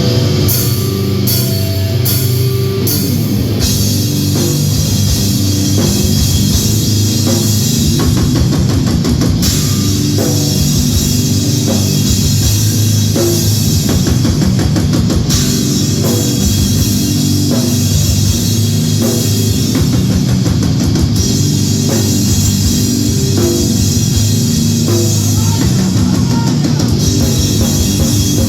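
Live grindcore band playing at full volume: heavily distorted guitar over fast, dense drum-kit hits.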